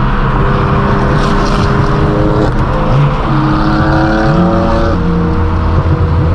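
Straight-piped BMW M4 F82's twin-turbo straight-six running loud under way, its pitch stepping a few times as the dual-clutch gearbox shifts, then rising as it pulls harder about four to five seconds in.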